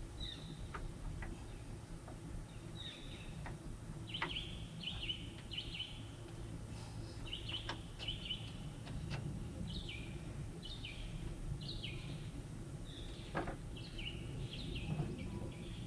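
A small bird chirping over and over in clusters of short, high, falling chirps. A couple of sharp taps from hand work come about four seconds in and again near the end, over a low steady background hum.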